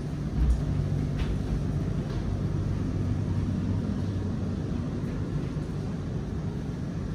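Steady low rumble and hum inside a metro train carriage as it runs, with one dull low thump about half a second in.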